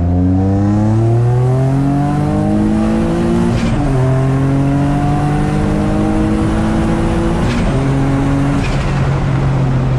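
Single-turbo Infiniti G35's VQ35 V6, on about 6 psi of boost, under hard acceleration from a 30 mph roll. Engine pitch rises steadily, and two upshifts, about 3.5 and 7.5 seconds in, each briefly drop the pitch before it climbs again.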